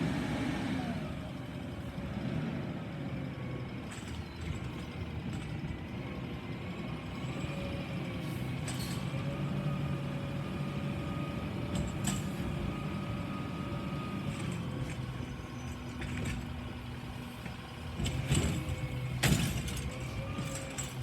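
Garbage truck running, its engine a steady low rumble with a steady whine over it, broken by several sharp clanks and knocks, with the loudest bangs near the end.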